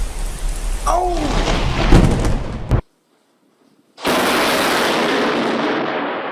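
Loud thunder from close lightning strikes: a crackling rumble that cuts off abruptly just under three seconds in, then, after a second of silence, another loud thunder burst that starts suddenly and slowly fades.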